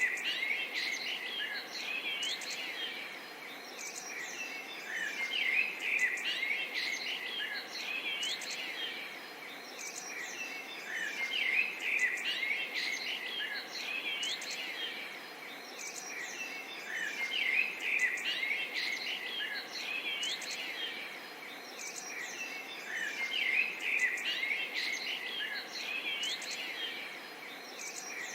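Several birds singing and chirping together, many quick, overlapping calls and whistles. The chorus swells and eases every few seconds over a faint steady hiss.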